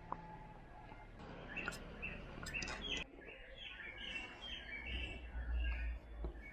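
Small birds chirping in a quick run of short notes, with a few sharp clicks of a knife working a metal sinker mould in the first half and a low rumble near the end.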